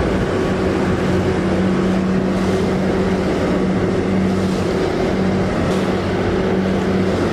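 A boat under way: a steady low engine-like hum over a constant rush of wind and water.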